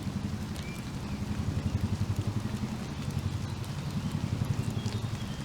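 Helicopter rotor chopping with a fast, steady low pulse, while scattered raindrops drip and tick.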